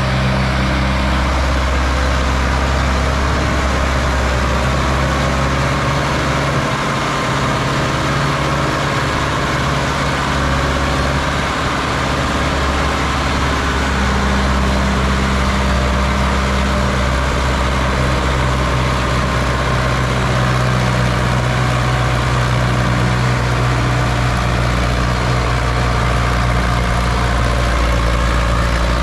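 Tractor diesel engine pulling a fully loaded trolley up a steep climb, running steadily under load. Its low note falters for a few seconds about a quarter of the way in, then settles again.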